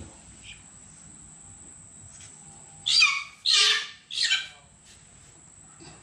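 A live bird held down by hand gives three loud calls in quick succession, about three seconds in.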